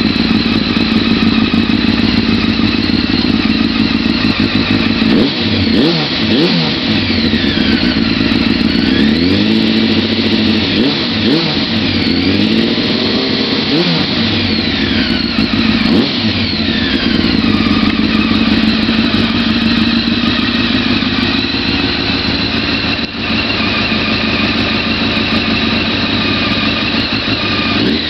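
Honda CBR900RR inline-four engine running through its exhaust. It idles, is revved up and back down several times in the middle, then settles into a steady idle again.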